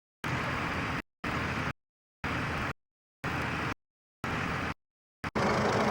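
Tractor engine and field noise that cuts out to dead silence and back about once a second, five times over, then runs on without a break near the end. The hard gaps are audio dropouts in the old recording.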